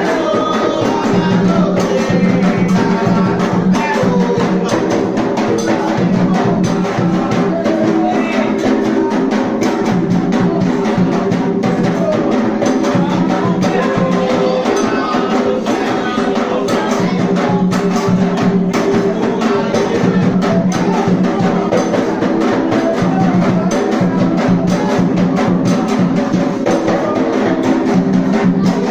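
Drums and hand percussion playing a fast, steady rhythm, with voices singing a chant over them.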